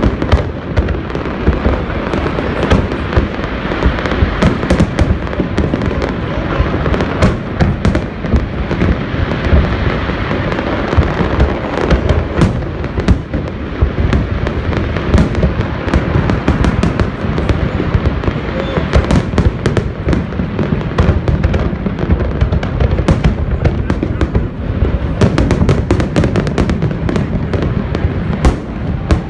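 Aerial fireworks bursting in rapid succession: many booms and sharp crackling reports packed closely together, with no let-up.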